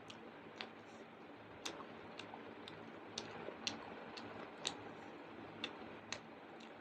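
Eating sounds: a string of about a dozen sharp, irregularly spaced clicks and smacks from chewing a meal of rice, mutton curry and papad.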